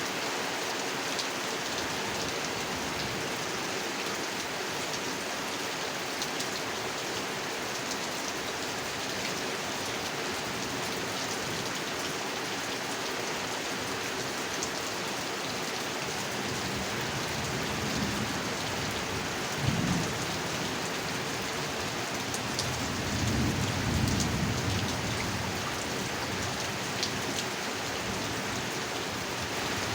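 Steady heavy rain falling on a pond. A low rumble of thunder comes about twenty seconds in, and a longer one a few seconds later.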